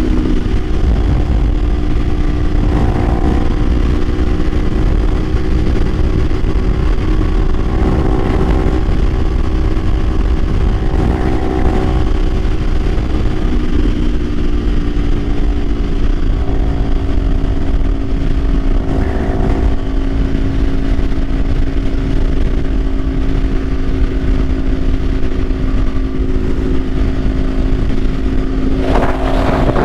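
Kawasaki Ninja 500 parallel-twin engine running at a steady cruise under heavy wind rumble on the mic. The engine pitch steps once about halfway through, and a rush of noise rises near the end.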